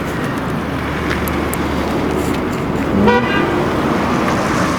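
Car running, with steady engine and road noise, and a short horn toot about three seconds in.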